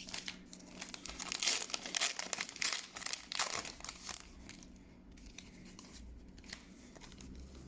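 A Pokémon booster pack's foil wrapper being torn open and crinkled, in irregular bursts of crackling that die down after about four seconds into faint rustling.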